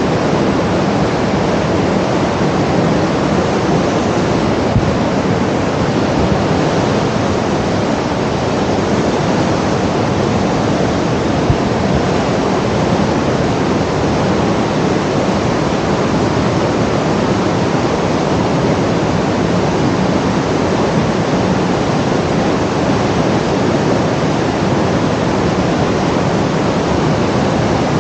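Steady, even rushing noise that does not change, with no tones or rhythm in it.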